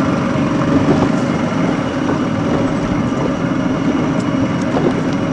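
A boat's engine running steadily underway, a constant low drone.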